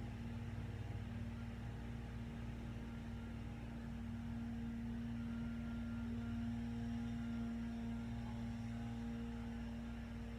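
Steady low electrical hum with a constant low tone and faint higher tones above it.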